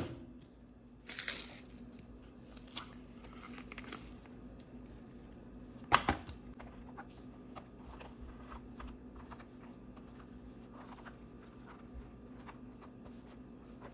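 Packaging crinkling and tearing as pizza crust dough is unpacked and laid out, in scattered rustles, with two sharp knocks about six seconds in. A low steady hum sits underneath.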